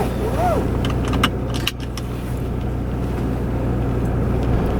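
Car engine running, heard from inside the cabin as a steady low hum, with a few sharp clicks about a second and a half in.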